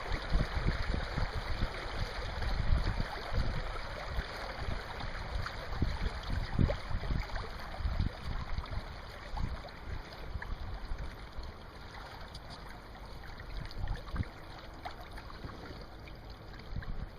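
Wind buffeting the microphone in irregular gusts, heavier in the first half and easing after about ten seconds, over a steady rush of water past a sailing boat's hull.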